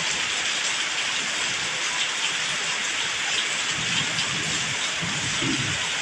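Steady heavy tropical rain: an even hiss of rainfall with scattered drop ticks. A low rumble joins in about four seconds in.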